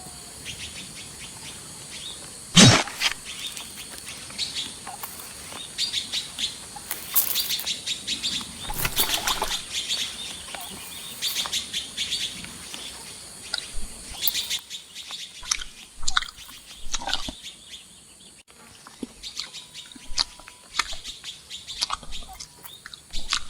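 Songbirds chirping, many short high calls. One sharp click about two and a half seconds in is the loudest sound.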